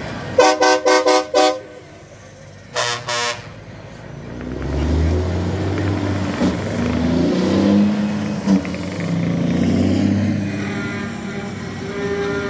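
Truck air horn sounding five short blasts in quick succession, then two more about a second later. After that a heavy vehicle engine runs past, its pitch rising and falling.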